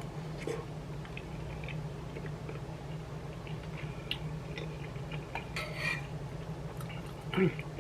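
A spoon clinking and scraping against a bowl while someone eats soup, in scattered small clicks over a steady low hum. A short louder sound comes near the end.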